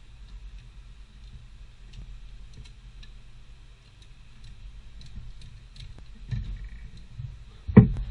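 Scattered light clicks and ticks of things being handled, with a louder sharp knock a little before the end.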